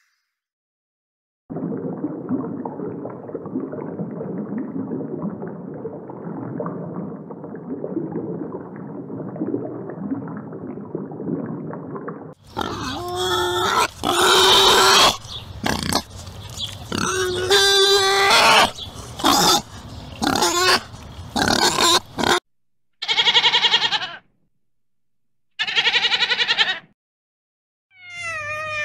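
Wild boar calls: a long stretch of low, rough grunting noise, then loud, high squeals in quick broken bursts, and two short separate calls near the end.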